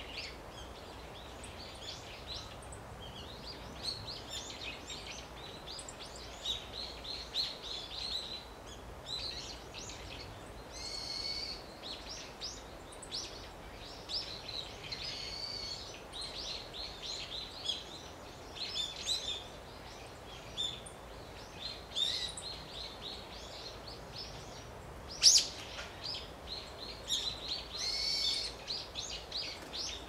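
Wild birds chirping and calling, many short high notes in quick runs throughout, with one louder sharp call near the end, over a faint steady outdoor hiss.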